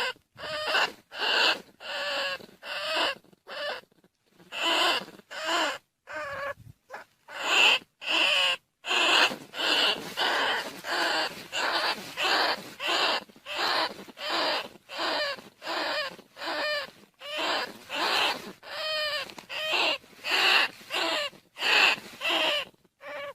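Rice-field rats and bandicoot rats squealing over and over, a lure call used to draw rats in. Short wavering squeaky cries come about two a second, with a few brief pauses.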